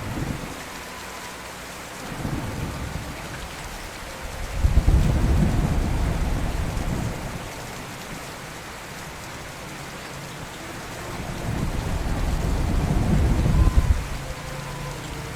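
Steady rain with rolling thunder. A low rumble comes about two seconds in, a loud, long rumble starts about five seconds in and fades over a couple of seconds, and a third builds from about eleven seconds and breaks off about fourteen seconds in.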